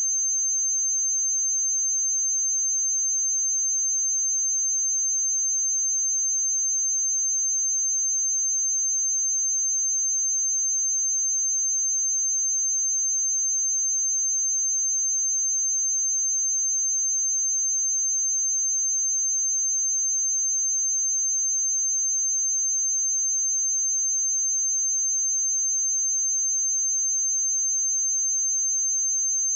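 A steady, high-pitched 6295 Hz sine-wave test tone, one pure unwavering pitch.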